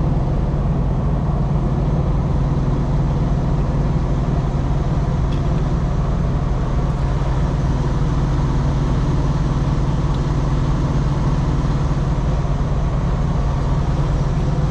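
Steady low drone of a heavy truck's diesel engine idling, unchanging throughout.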